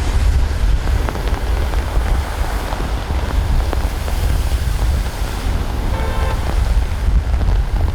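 Strong wind buffeting the microphone as a heavy, steady rumble over a rushing noise, with a short pitched tone about six seconds in.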